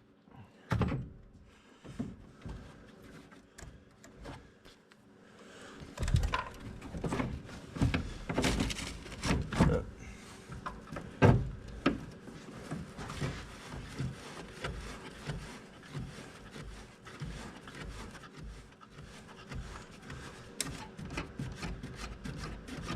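Plastic trunk-latch trim panel of a 1999 Ford Mustang being pried out, its retaining clips popping and the panel rubbing and knocking. A scattered run of clicks and knocks, busier from about six seconds in.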